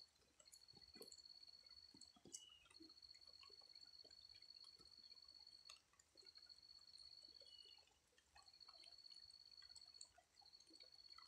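Faint dripping of rain, with a high steady trill repeating in phrases of about one and a half to two seconds, separated by short gaps.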